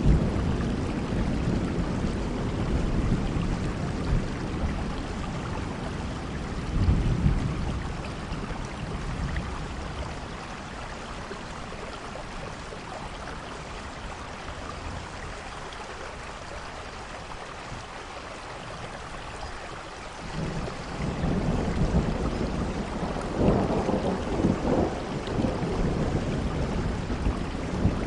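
Steady rainfall with low rumbles of thunder that swell and fade. One rumble comes about seven seconds in, then a quieter stretch, then the rumbling builds again about two-thirds of the way through.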